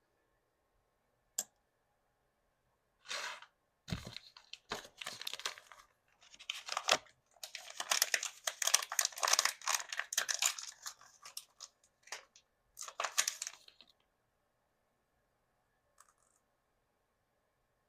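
Thin plastic toy packaging from a Mini Brands capsule being torn open and crinkled by hand, in irregular bursts of tearing and crackling that are densest about halfway through. A single sharp click comes just before the tearing starts.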